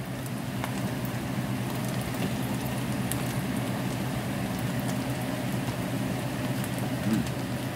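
Chopped pork sisig sizzling in a frying pan, a steady fine crackle of frying, with a steady low hum underneath.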